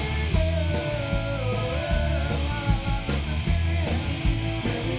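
Live rock band playing between vocal lines: an electric guitar lead with bent, gliding notes over steady bass and drums, with the cymbals keeping an even beat.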